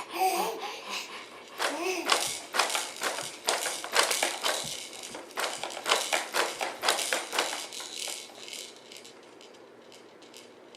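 A baby playing in a rainforest jumperoo: a quick run of tapping and clattering, several taps a second. Short bits of baby babbling come near the start and again about two seconds in.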